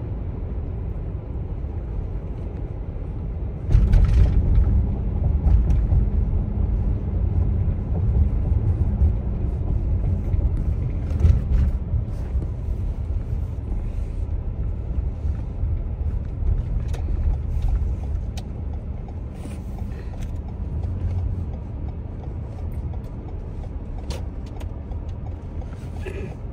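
Road noise of a moving car: a steady low rumble of tyres and engine, growing louder about four seconds in.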